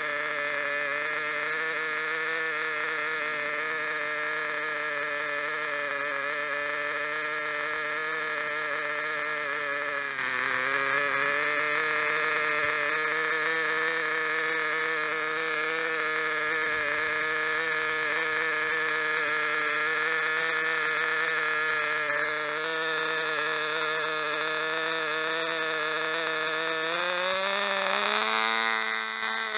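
Small nitro model engine of a 1/16-scale RC car running at a steady pitch. The note dips slightly and gets a little louder about ten seconds in, then revs up, rising in pitch, near the end.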